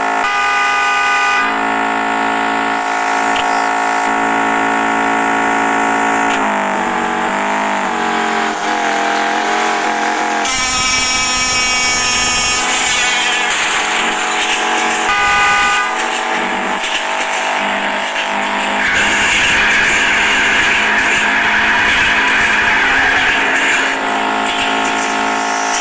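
Honda K20A 2.0-litre inline-four i-VTEC engine of a DC5 Integra Type R running under way. Its note shifts in pitch several times as it revs up and settles, and it wavers for a few seconds in the middle.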